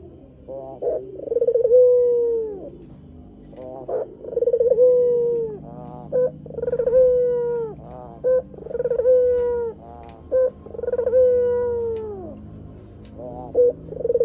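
White puter dove cooing over and over: each phrase is a short rolling note, then a long coo that falls in pitch at its end, about every two seconds, with short clipped notes in between.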